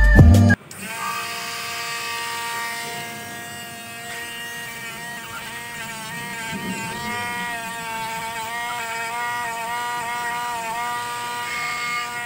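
Loud music cuts off about half a second in, and then a small handheld power tool's electric motor runs steadily with a high, slightly wavering whine.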